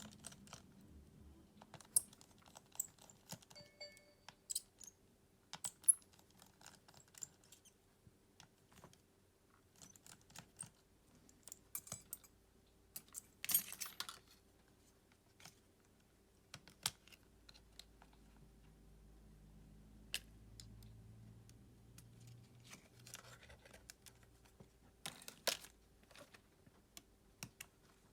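Small hand tools and phone parts clicking, tapping and scraping against each other and the work surface at irregular intervals during smartphone disassembly, with a longer rasping scrape about halfway through.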